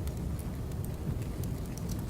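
Crackling wood fire: a steady low rumble with scattered sharp pops and crackles.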